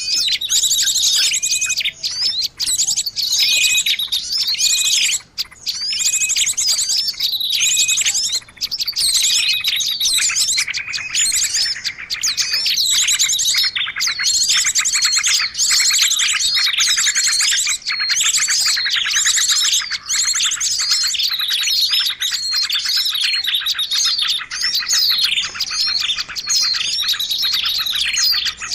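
Many small songbirds chirping and twittering at once in a dense, unbroken chorus of quick, high chirps and trills: a bird-luring recording meant to draw wild birds in.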